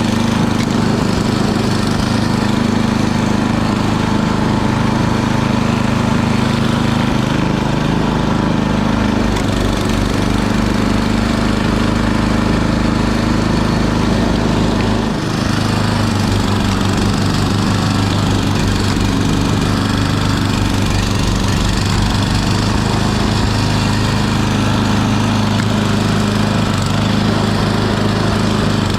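Gasoline snow blower engine running steadily under load, with a brief dip about halfway through.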